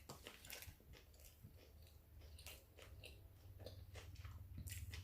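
A person chewing a steak and cheese sub up close, with soft irregular mouth clicks. A low hum runs underneath and grows louder toward the end.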